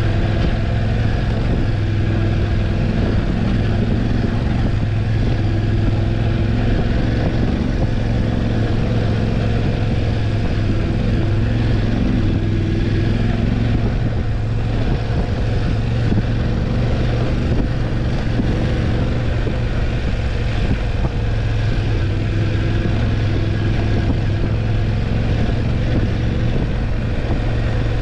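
BMW F850GS motorcycle's parallel-twin engine running steadily while riding, at a fairly even engine speed.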